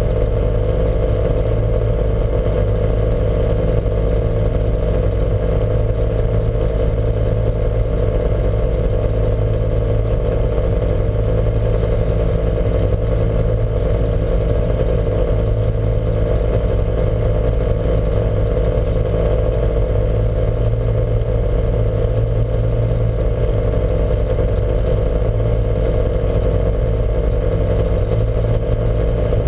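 Lancia Montecarlo's four-cylinder engine running hard at fairly steady revs, with a heavy misfire.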